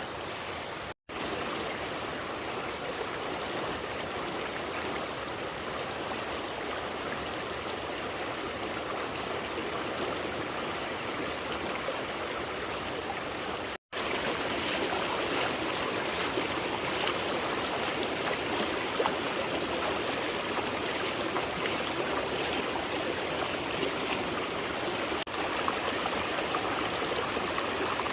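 Running water rushing steadily, with two brief dropouts about a second in and about halfway through; it is a little louder after the second.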